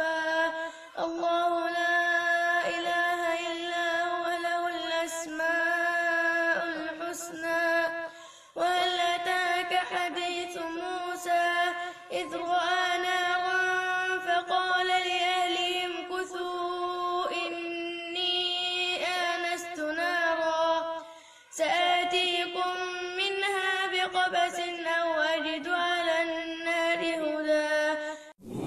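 A solo male voice reciting the Quran in melodic tajweed style, with long drawn-out, ornamented notes. Several long phrases are separated by brief pauses for breath.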